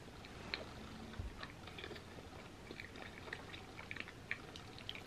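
A person chewing a mouthful of soft macaroni and cheese with closed lips: faint, irregular wet smacks and small mouth clicks.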